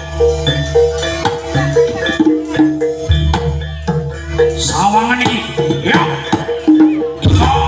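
Live Javanese gamelan music: metal mallet instruments play a repeating stepped melody over drums and a low sustained hum.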